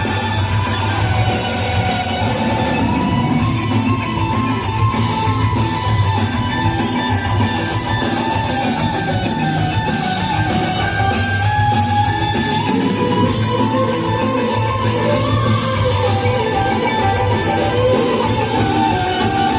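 Live rock band playing loud, dense music, with electric guitars over a drum kit.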